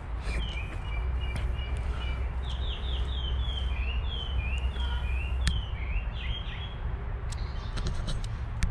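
Small birds chirping in the trees, a quick run of short falling chirps several a second that thins out after about six seconds, over a steady low rumble.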